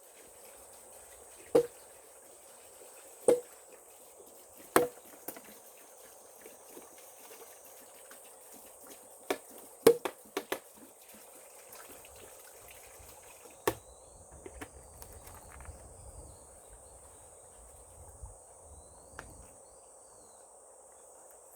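Sharp chopping strikes, three evenly spaced about a second and a half apart, then a quick cluster and a single blow, over a steady high insect buzz.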